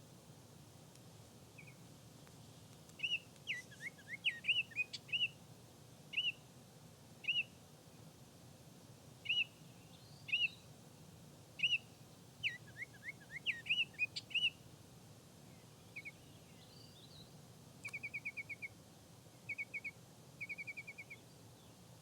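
Male Baltimore oriole singing: clear, melodious whistled notes and slurred phrases, coming in bursts for about ten seconds, then a few short, fast, rattling runs of notes near the end.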